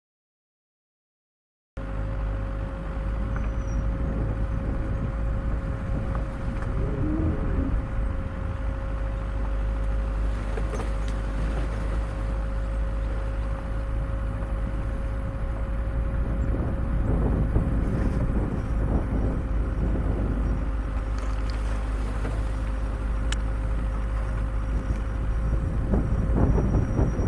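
Off-road vehicle driving a rough, overgrown forest track: a steady low rumble with a faint constant whine and scattered short knocks and scrapes. It starts about two seconds in, after silence.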